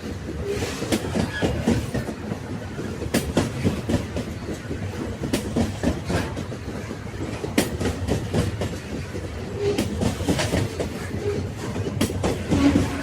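Railway carriages rolling along the track: a steady low rumble with irregular clicks and knocks from the wheels on the rails, and a few brief creaks.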